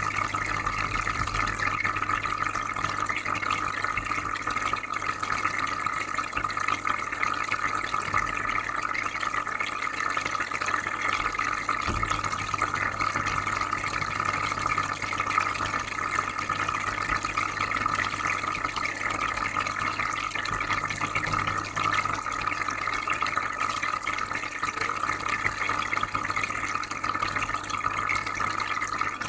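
Aquarium filter running: steady bubbling, trickling water over a low, even hum.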